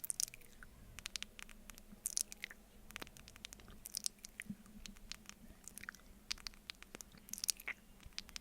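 Close-miked ASMR wet mouth sounds: sticky lip smacks and tongue clicks of licking honey off a spoon. They come in clusters about every two seconds.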